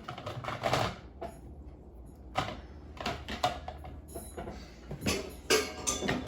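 Dishes and cups knocking and clinking as they are lifted out of a dishwasher and set down, in a run of separate knocks every second or so.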